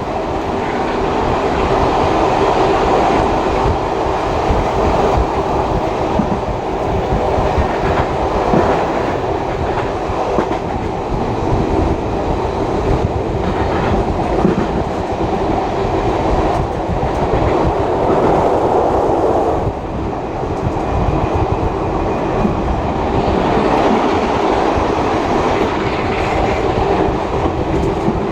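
Heritage passenger train carriage rolling along the track: a steady rumble of wheels on rail with the clickety-clack of rail joints.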